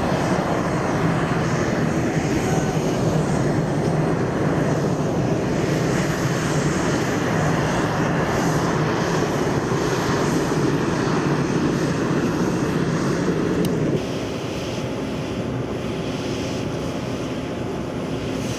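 Aircraft engine running steadily and loudly; about fourteen seconds in it cuts abruptly to a quieter, steady drone.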